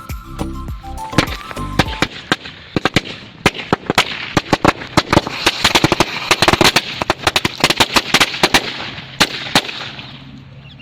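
Short burst of background music, then a string of firecrackers packed inside a bottle going off: many sharp bangs in quick, irregular succession over a crackling hiss for about seven seconds, thinning out near the end.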